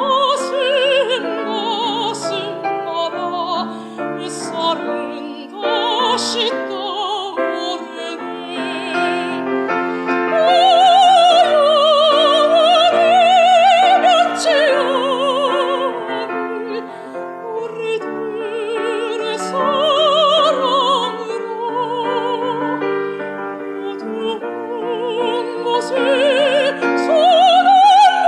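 Live classical performance: a melody with wide vibrato, swelling louder about ten seconds in, over piano accompaniment.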